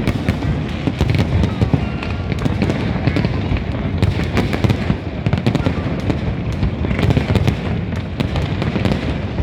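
New Year fireworks going off in a dense, continuous barrage: many overlapping bangs and crackles over a steady low rumble, with no pause.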